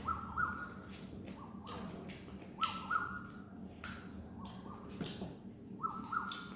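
A bird chirping outside in short rising notes, two or three at a time, repeating every second or so. Between the chirps come brief sharp clicks and smacks of someone eating by hand.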